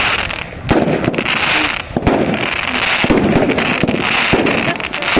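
Fireworks going off: a continuous dense crackling with many sharp cracks and pops scattered through it.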